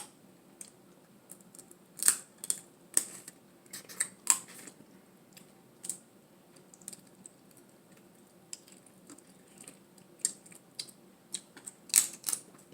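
Dungeness crab shell being cracked and picked apart by hand with close-mic eating sounds: irregular sharp cracks and snaps, some in quick clusters, with the loudest about two, three and four seconds in and again near the end.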